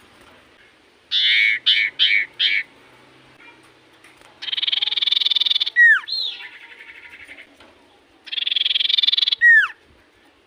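Common iora singing: four short harsh notes, then a buzzing rattle ending in a sharp falling whistle, a fainter pulsing stretch, and a second buzzing rattle ending in another falling whistle.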